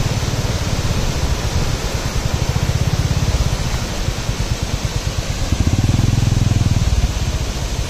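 Motorcycle engine running under way, a steady rapid beat of firing pulses under wind and road noise, swelling louder for a second or two past the middle.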